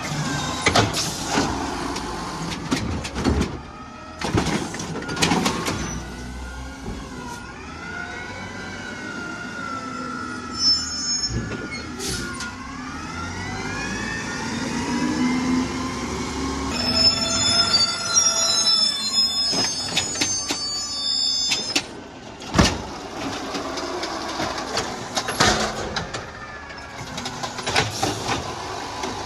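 Garbage truck working a pickup: its engine rises and falls in pitch, with repeated sharp bangs and clanks of metal and bins, and a spell of high squealing partway through.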